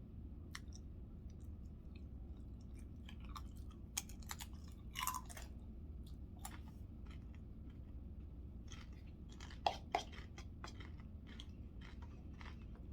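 A person chewing a mouthful of chicken burrito bowl, with soft wet mouth clicks and a few louder clicks about five and ten seconds in, over a low steady room hum.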